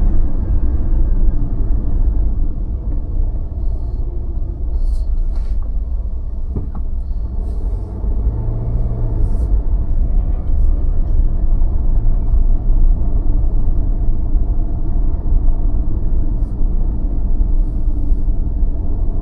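A car driving slowly through city streets, its engine and tyres making a steady low rumble.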